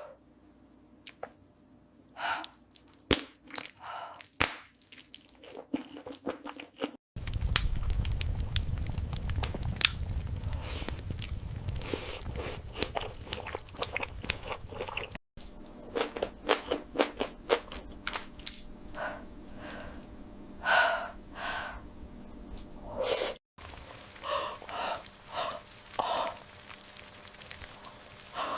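Close-miked mukbang eating sounds: wet chewing, biting and crunching with sharp smacks. The clip is broken into four pieces by abrupt cuts, with a loud low rumble under the second piece.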